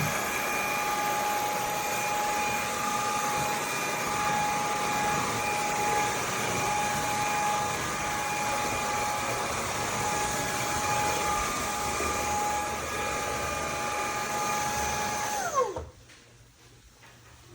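VIAFLY cordless stick vacuum running steadily with a constant motor whine. Near the end it is switched off: the whine drops in pitch and the motor spins down to quiet.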